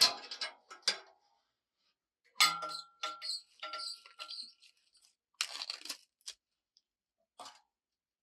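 Handling noises: clusters of sharp knocks, crinkles and rustles, with a short metallic ring about two and a half seconds in.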